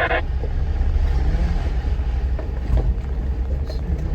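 Off-road vehicle driving along a dirt mountain trail, heard from inside the cab: a steady low rumble of engine and tyres, with a couple of light knocks a little over two seconds in.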